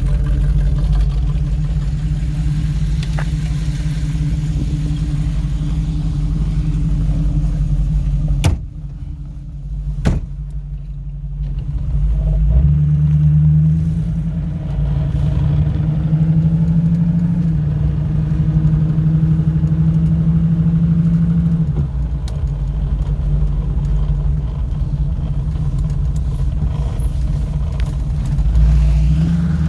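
Hot-rod small-block Chevrolet 400 V8 with headers and dual exhaust running. Two sharp knocks come about eight and ten seconds in. The engine note then rises and falls in steps as the car is driven off.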